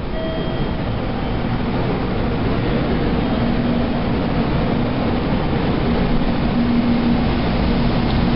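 A JR Central 300 series Shinkansen train pulling into the station platform to stop. Its rumble and a low steady hum grow gradually louder as it approaches.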